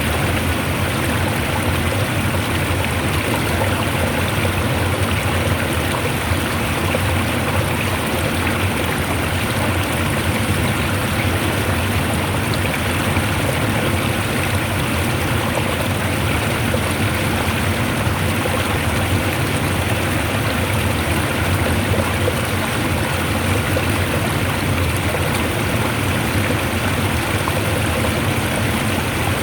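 Fast-flowing water rushing strongly and steadily, an even unbroken roar of running water.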